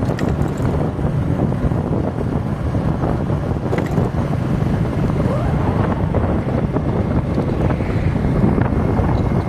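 Steady wind buffeting the microphone over a vehicle's running engine and road noise, with a couple of faint clicks.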